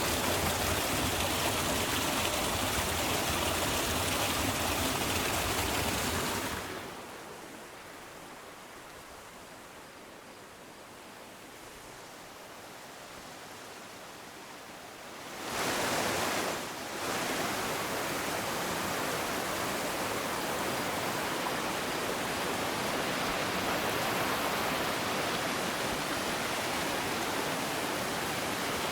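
River water flowing in a steady rushing wash. It turns softer and duller for about nine seconds in the middle, then comes back up at full strength.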